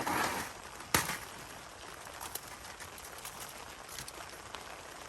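Steady rain hiss with scattered light ticks. It opens with a brief rustle of handling and a single sharp click about a second in.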